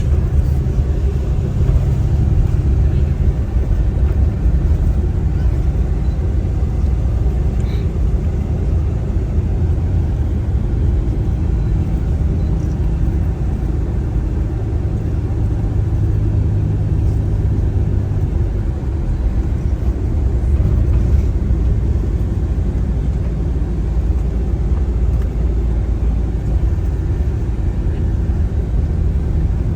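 Car driving along at steady speed: a continuous low rumble of engine and tyre road noise, heard from inside the cabin.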